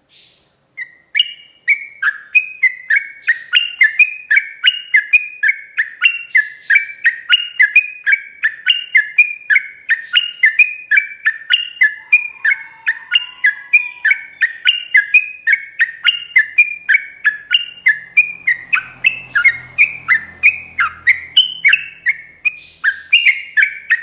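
Yellow-vented bulbul (trucukan) singing a long, fast run of repeated chattering notes, about three a second, without a break.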